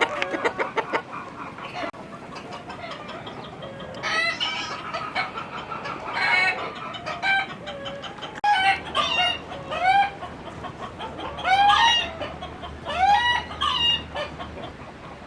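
Domestic chickens clucking and calling. A quick run of clucks comes first, then from about four seconds in a string of short rising squawks about a second apart.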